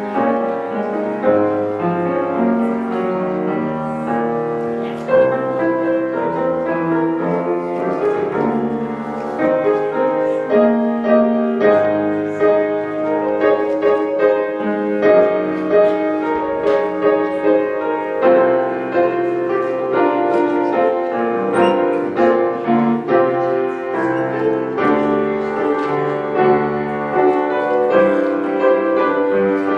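Solo piano playing a hymn arrangement, with many sustained notes and chords.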